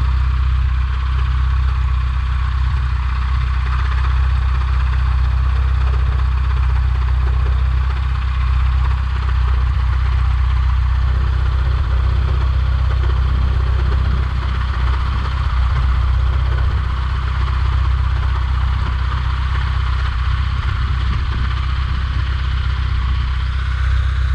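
Light airplane's piston engine idling steadily as it warms up before takeoff.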